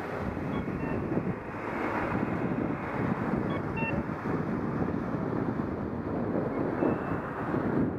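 Wind buffeting an action camera's microphone as a bicycle rides along, a gusting rush with vehicle noise underneath.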